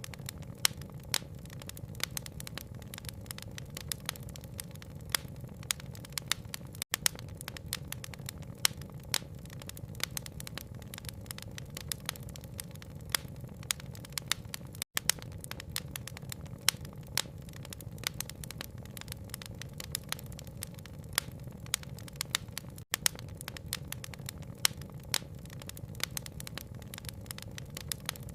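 Wood fire crackling, with frequent sharp pops over a steady low rumble and a soft hiss of rain. The sound cuts out for an instant three times, about every eight seconds.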